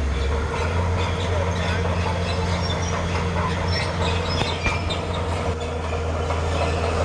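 Crawler bulldozer's diesel engine running steadily, with its steel tracks clanking and giving short squeaks.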